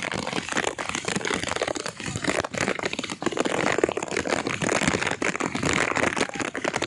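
Heavy rain falling in strong wind, with dense crackling and ticking as drops strike close to the phone's microphone.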